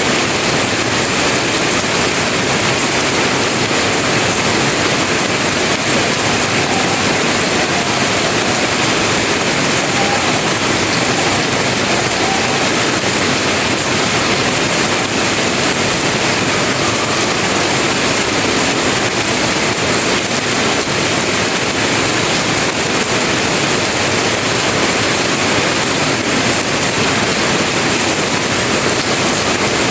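Heavy rain pouring steadily, a loud, even hiss with no breaks.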